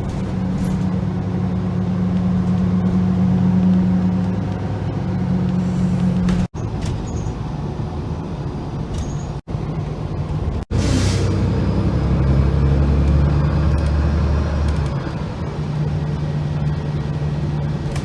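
Steady engine noise with a low hum and a few low, steady tones, broken by several abrupt cuts between clips.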